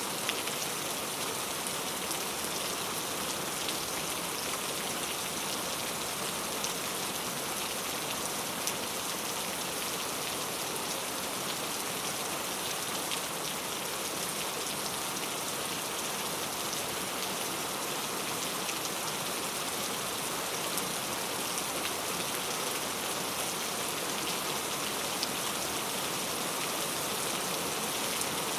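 Heavy rain falling steadily, a dense hiss with scattered individual drop spatters.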